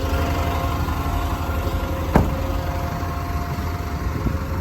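Hino 300 Series tipper truck's diesel engine idling with the PTO engaged, driving the hydraulic pump that raises the tipper body, a faint steady whine over the engine hum. A single sharp knock about two seconds in.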